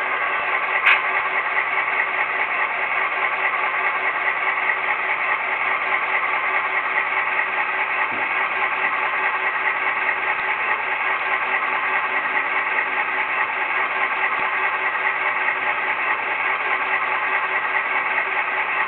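SoundTraxx Tsunami sound decoder in a model GP9 diesel locomotive, playing its recorded EMD 567 prime mover sound steadily through the model's small speaker, with a short click about a second in.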